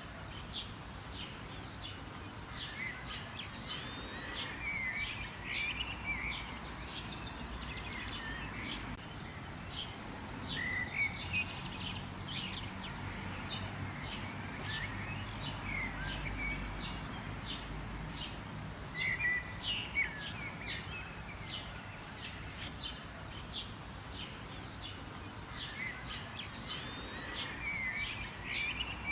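Several wild birds chirping and calling together: a dense run of quick, short chirps with occasional warbling phrases. A steady low rumble of outdoor background noise runs underneath.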